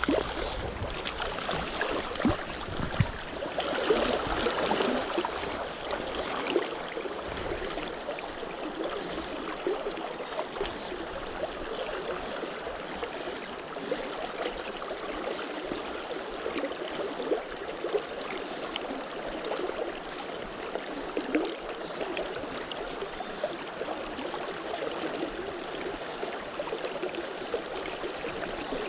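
River water flowing and babbling over stones, a steady rush with a louder, splashier stretch around four seconds in.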